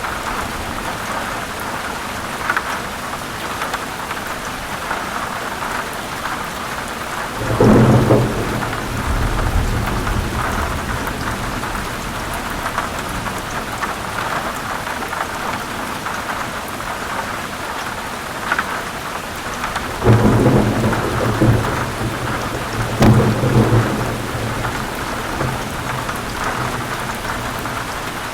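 Steady heavy rain falling, with rolls of thunder rumbling in three times: one about a third of the way in that fades over a few seconds, and two close together in the last third.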